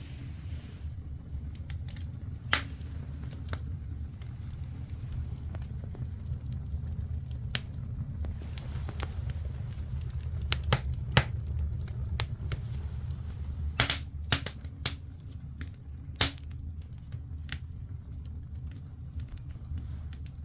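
Firewood burning in a traditional Korean agungi firebox, crackling with irregular sharp pops over a steady low rumble. A few louder pops stand out, two close together about eleven seconds in and several around fourteen to sixteen seconds.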